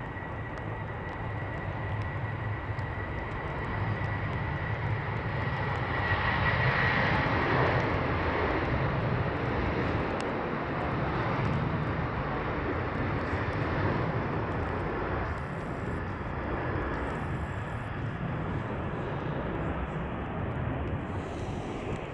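Airbus A319 jet engines running, a steady rushing noise with a thin high whine in it. The sound swells over the first several seconds and then holds, while the whine fades out about eight seconds in.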